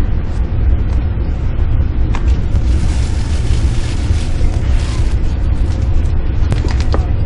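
Low, steady rumble heard inside an E4 series double-decker Shinkansen car as the train pulls out of the station, with a couple of faint clicks about two seconds in and again near the end.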